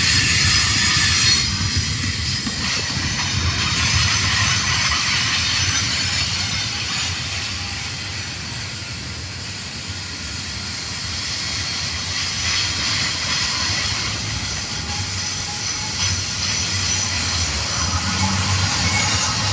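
Double-stack container train's well cars rolling past at close range: steel wheels rumbling and clattering over the rails, with a thin high-pitched wheel squeal on top. It eases off a little midway and grows louder again near the end.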